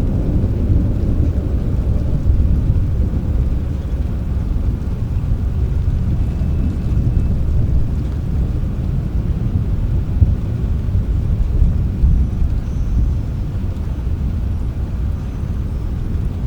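Low, continuous rumble of distant thunder under steady rain, the rumble swelling and easing without a break.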